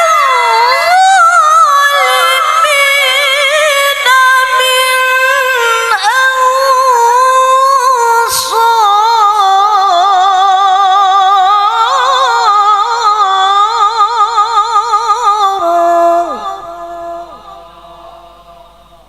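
A woman's solo Quran recitation in the melodic tilawah style: one long melismatic phrase held on, full of rapid wavering ornaments. It ends about 16 seconds in and trails off in echo.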